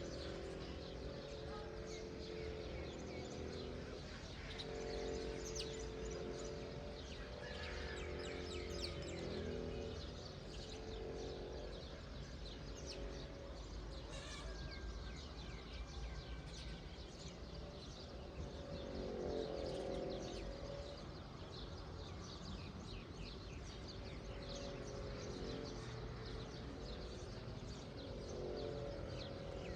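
Outdoor morning ambience: small birds chirping over a steady low rumble. A distant pitched, voice-like call rises and falls several times.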